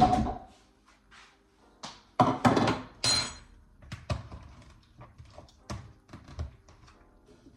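Bowls and utensils knocking and clattering as fruit salad is moved from one bowl to another: a sharp knock, then a loud cluster of clatter with a brief ringing clink about three seconds in, and smaller knocks after.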